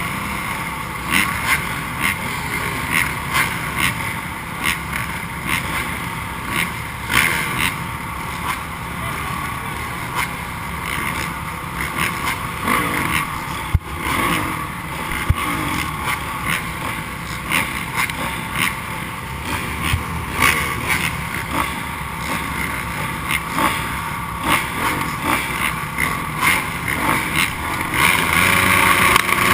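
Several motocross bikes racing around the track, their engines revving and being blipped in repeated short bursts. The engines get louder near the end as bikes come closer.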